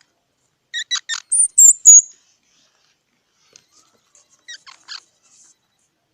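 Squirrel calling: a quick run of short squeaky chirps about a second in, ending in high, thin whistled notes, the loudest part, then a few fainter chirps about four and a half seconds in.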